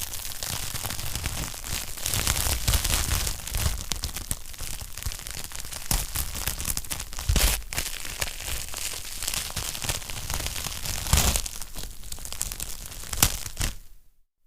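Wood fire crackling steadily in a fireplace, with dense small snaps and a few louder pops. The sound drops out briefly near the end.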